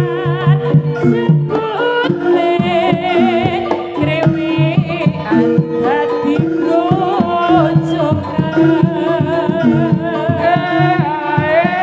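Javanese jaranan music: hand drums playing a busy rhythm under held, ringing gong-chime tones, with a high melody line that wavers in a heavy vibrato on top.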